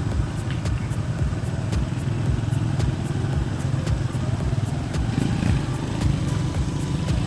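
Motorcycle running steadily while being ridden, a continuous low rumble without let-up.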